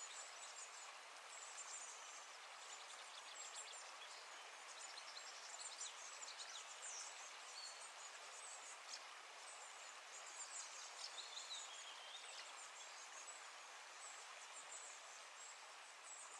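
Faint outdoor ambience: a steady hiss with many short, high bird chirps scattered throughout.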